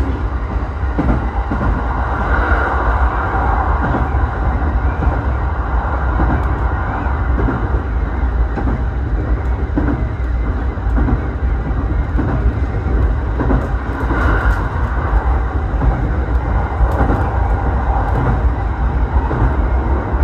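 Electric commuter train running between stations, heard from inside the carriage: a steady, loud rumble of wheels on rails, with a brief higher squeal twice.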